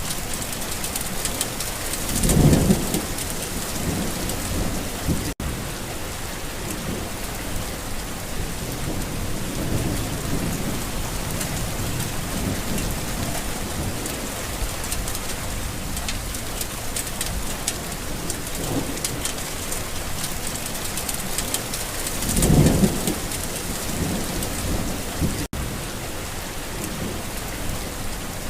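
Steady rain falling on a garden, with two short rumbles of thunder: one about two seconds in, the other about three quarters of the way through.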